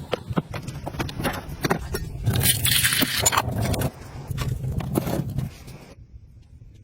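Irregular scraping and knocking, with a louder scraping rush about two and a half seconds in; the sound dies away about a second before the end.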